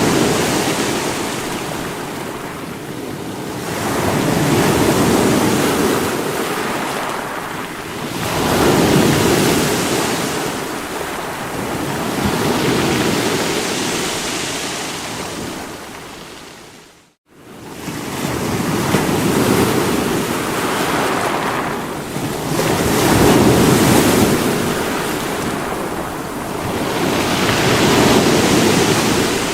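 Sea waves breaking against rocks: a continuous wash of surf that swells and falls back every few seconds. Just past the middle it drops out to silence for a split second, then comes straight back.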